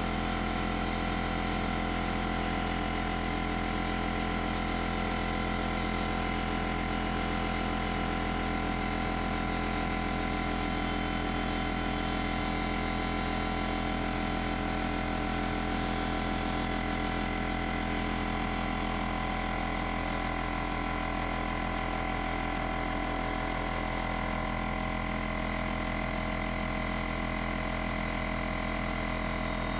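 Porter-Cable pancake air compressor's motor and pump running steadily, building pressure in the tank toward its cut-out.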